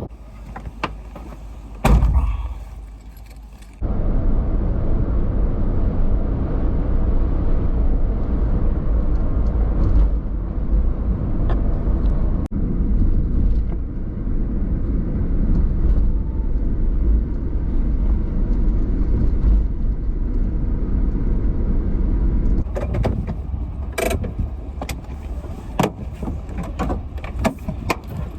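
Car driving, a steady low rumble of road and engine noise that starts abruptly about four seconds in. Before it come a few clicks and a sharp thump.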